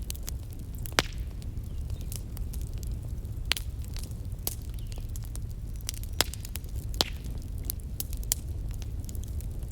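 Wood campfire crackling, with sharp pops at about one second, three and a half seconds, six seconds and seven seconds in and smaller snaps between, over a steady low rumble.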